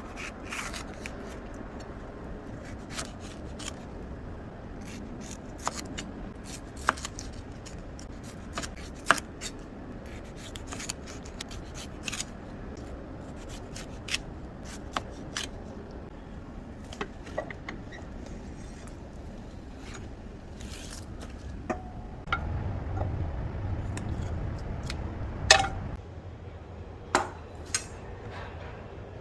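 Scattered light clicks, taps and knocks of household items being handled during kitchen chores, with a low hum for a few seconds near the end.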